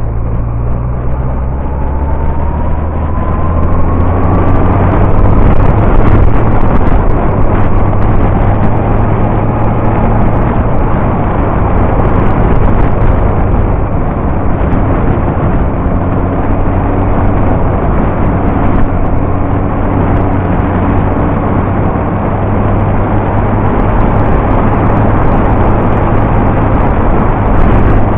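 Yamaha R1's inline-four engine running under way, rising in pitch over the first few seconds as it picks up speed. Heavy wind noise rushes over the bike-mounted camera's microphone.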